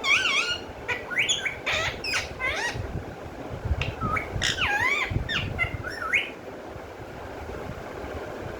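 Pet parrot calling in a quick series of short squawks and chattering calls that swoop up and down in pitch, falling silent about six seconds in.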